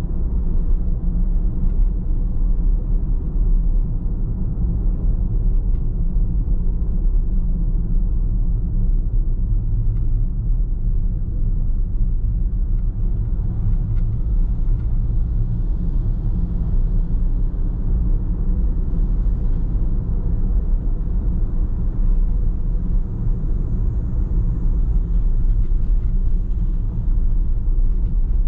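Steady low rumble of a car driving at an even pace: tyre, road and engine noise, with a faint steady hum.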